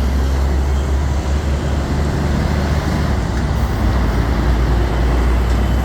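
Heavy road traffic with container and construction trucks passing close by: a steady, loud low rumble of diesel engines and tyres.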